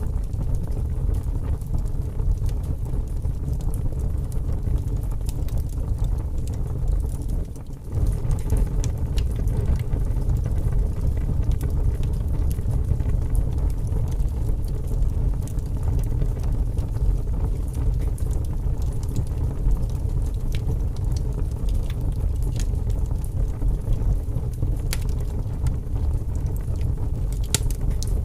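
Wood fire burning in a fireplace: a steady low rumble of the flames with scattered small crackles and pops. The sound dips briefly about seven and a half seconds in.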